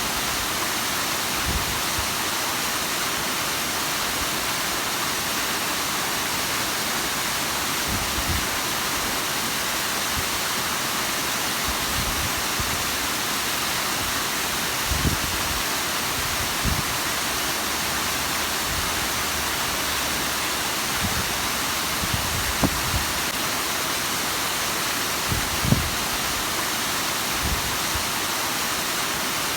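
Steady rushing of the Bigăr waterfall, with a few brief low thuds scattered through it.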